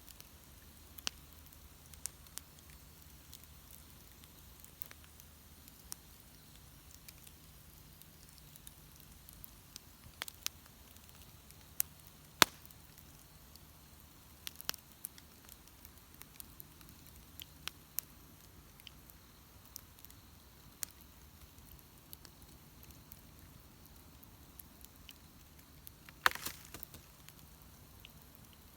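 Wood bonfire crackling, with scattered sharp pops at irregular intervals over a quiet background. The loudest pop comes about twelve seconds in, and a quick cluster of pops comes near the end.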